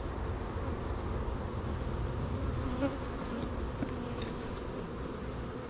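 Honeybees buzzing around an open hive: a steady hum, with a few faint clicks.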